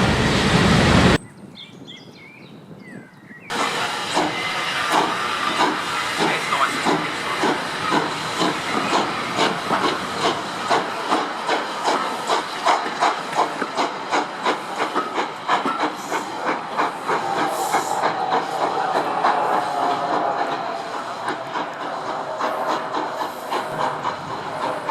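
Steam locomotive working hard, its exhaust beating in a fast, even rhythm that starts suddenly a few seconds in, over a hiss of steam.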